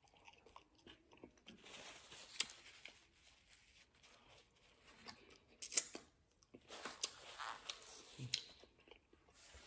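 A person eating chicken wings close to the microphone: quiet biting and chewing, with a scattering of sharp crunches.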